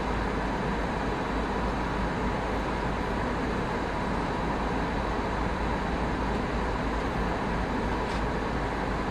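Steady cabin noise of an Airbus A319 airliner in flight: an even rush of engines and airflow, with a thin high whine running through it.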